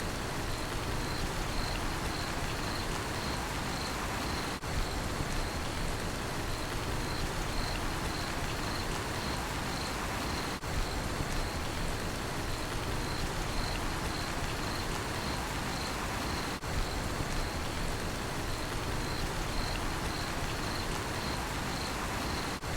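Steady rain falling, with a cricket chirping in a high, even pulse about twice a second. The sound dips briefly about every six seconds.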